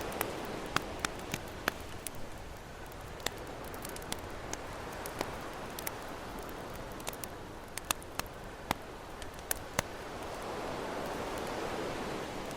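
Campfire crackling, with irregular sharp pops and snaps, over ocean waves washing in and receding; a wave swells up again near the end.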